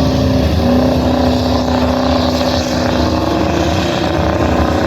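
Truck or tractor engine running loudly at high, fairly steady revs, as in a pulling run. There is a brief break in its note about half a second in.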